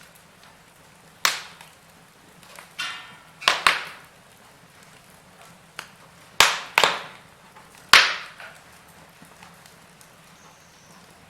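Wood fire in a fireplace crackling, with about seven sharp, irregular pops and snaps over a faint steady hiss; the loudest come near the middle and about eight seconds in.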